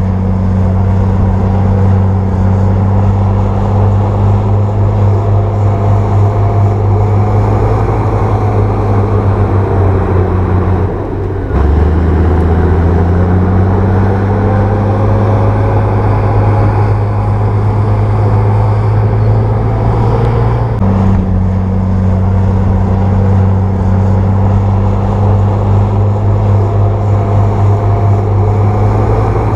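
Bulldozer diesel engine running steadily with a deep, even drone. The engine note breaks off briefly about 11 seconds in, resumes at a slightly different pitch, and shifts again about 21 seconds in.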